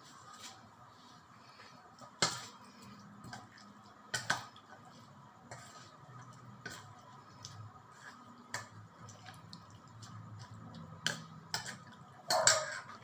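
Scattered clicks and clinks of kitchen dishes and utensils, over a faint low hum, with a louder sound near the end.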